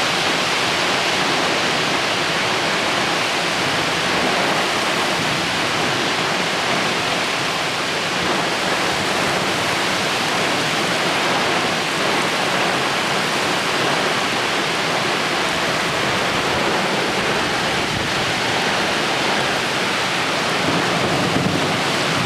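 Torrential thunderstorm downpour, rain coming down in sheets as a steady, dense hiss that holds even throughout.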